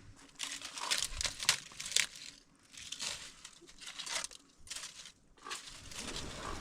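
Irregular crinkling and rustling of something being handled, coming in short bursts with brief pauses between them.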